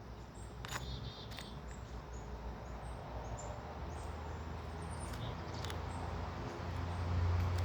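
Small birds chirping at a feeder: two short chirps about a second in, then faint, high, short calls scattered through, over a low rumble that grows toward the end.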